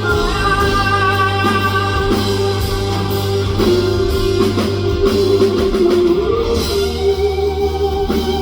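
Rock band playing an instrumental passage of a song, with electric guitar over drums and bass and no singing. About six and a half seconds in, the texture changes to steady held chords.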